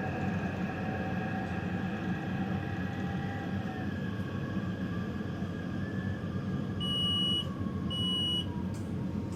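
Taipei Metro train running: a steady rumble of wheels on the rails, with whining motor tones that slowly drift in pitch. About seven seconds in come two short, high electronic beeps.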